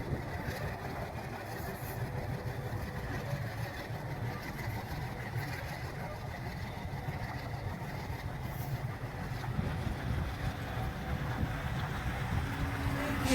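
Alco RS8 diesel-electric locomotive's engine running steadily, a continuous low rumble with a faint steady hum.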